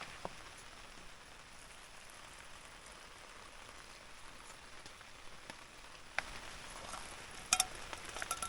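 Steady rain pattering on a tarp shelter, with scattered drops ticking. A few sharp metallic clinks ring out near the end.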